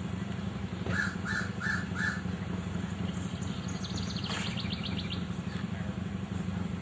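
A crow cawing four times in quick, even succession, with a small bird giving a rapid high trill a few seconds later, over a steady low background hum.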